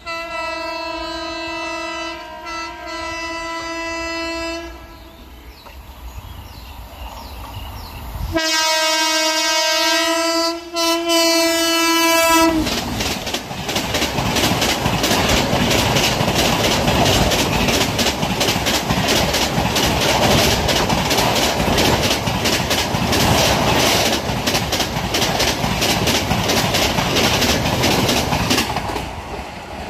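A WAP-7 electric locomotive's horn sounds as the express approaches: one call of about four and a half seconds with a short break in it, then a longer, louder blast about eight seconds in. From about twelve seconds the train is rushing past at speed, a loud steady rush with a rapid clatter of wheels over the rail joints, easing off just before the end.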